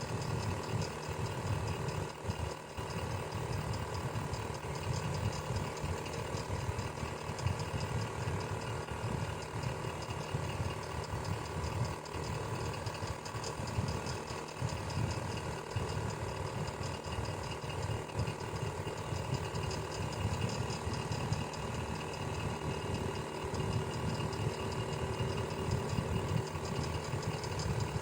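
Electric fan running steadily: a motor hum and a whoosh of air with a fast, even rattle.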